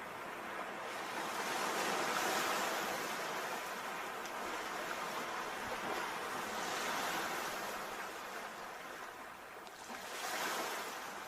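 Sea surf washing ashore in slow, noisy swells that build and fall away about every four to five seconds.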